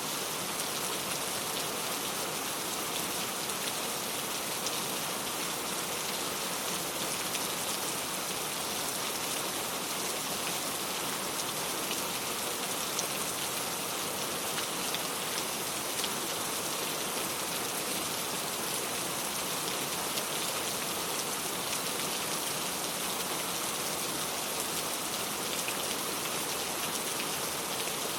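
Steady rain falling, a dense even hiss of drops landing on a surface with fine individual drop ticks.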